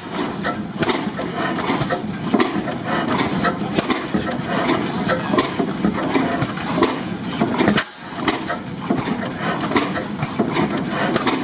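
Antique stationary gas engines running: a steady mechanical clatter of rapid clicks and knocks, with a brief drop in level about eight seconds in.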